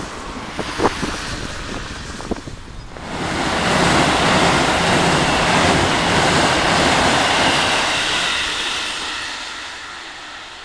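Electric passenger train crossing a steel truss railway bridge: its rumble swells about three seconds in, holds for several seconds, then fades as the train moves off. Wind on the microphone, with a few light clicks before the train arrives.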